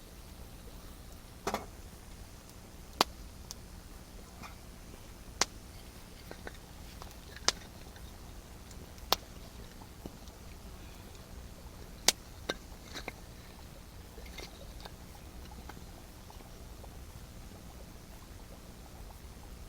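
Wood fire crackling, with sharp single pops every couple of seconds over a faint steady low rumble.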